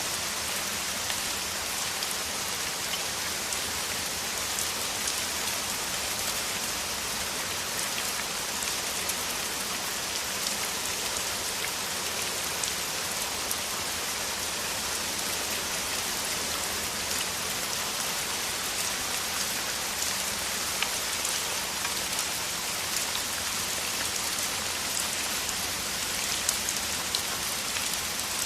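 Steady heavy downpour of rain: an even hiss with many separate drop ticks scattered through it.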